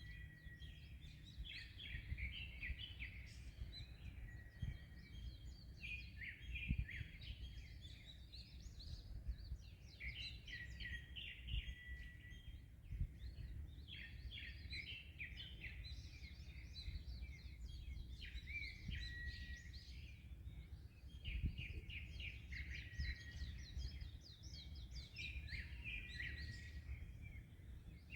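Small birds chirping and twittering busily and without pause, many short high calls overlapping, over a steady low rumble of wind and waves.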